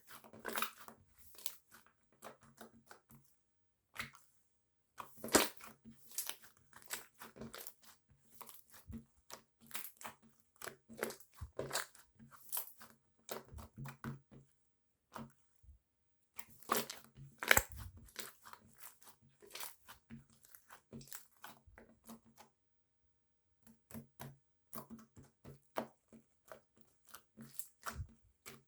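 Close, dense crackling and popping, many small sharp clicks in bursts with brief pauses between them, as air bubbles in a bubble-filled material pop while it is handled.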